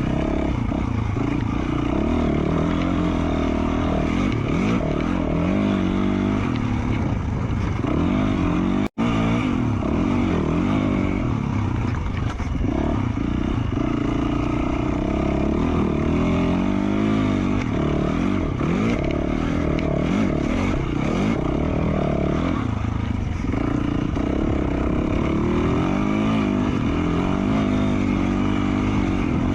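2020 Yamaha YZ450F single-cylinder four-stroke engine with an FMF Q4 slip-on exhaust, revving up and down continually while the dirt bike is ridden along a trail. The sound cuts out for an instant about nine seconds in.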